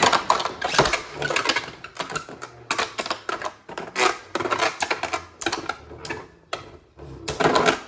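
Two Beyblade Burst tops, Venom Devolos and Command Dragon, spinning and clashing in a plastic stadium: a fast, irregular clatter of sharp plastic-and-metal clicks as they hit each other and the stadium walls.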